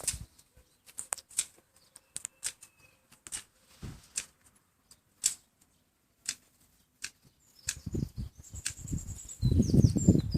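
Scattered sharp taps and clicks, then, about two-thirds of the way in, a louder flurry of a bird's wings flapping with a few thin, high-pitched chirps.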